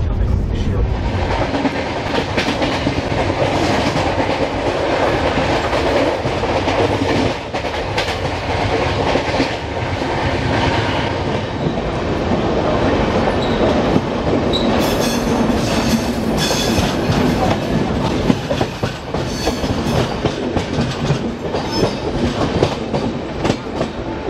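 Shatabdi Express passenger coaches running at speed, heard from aboard: a steady rolling rumble with the wheels clattering over rail joints, the clatter growing sharper over the second half.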